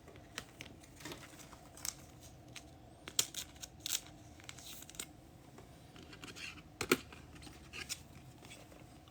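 Scattered light clicks and taps, with a faint soft rustle shortly before a sharper tap about seven seconds in.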